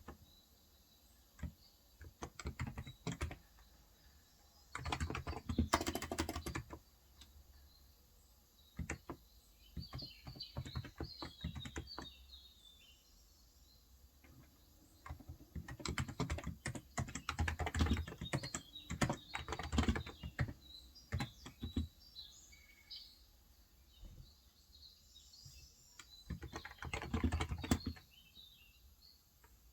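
Typing in bursts on a Cox Endeavor electrostatic capacitive tenkeyless keyboard with 35 g keys, the keystrokes coming in quick runs with short pauses between them. Birds chirp faintly behind the typing about a third of the way in and again near the end.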